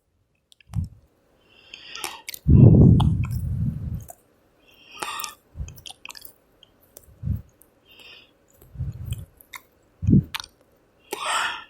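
Scattered mouth sounds, like chewing, close to a microphone, with a few small clicks and soft thumps and one longer low rumble a few seconds in.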